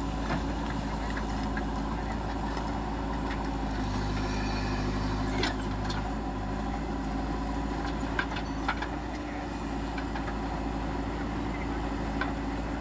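Heavy diesel engine running steadily, with a few short sharp clanks over it and a brief rise in engine sound around the middle.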